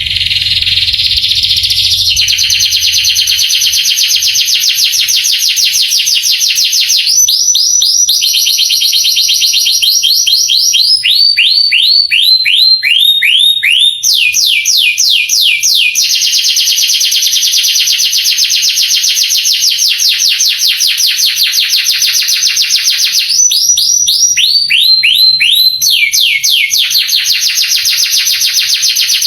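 Male canary singing without pause, mostly in fast rolling trills, with two stretches of separate falling whistled notes, about two a second: one about a quarter of the way in and one near the end.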